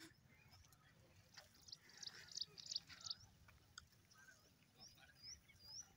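Quiet rural ambience with faint small-bird chirps: a quick cluster of short high chirps about two seconds in, then a few short curved chirps near the end.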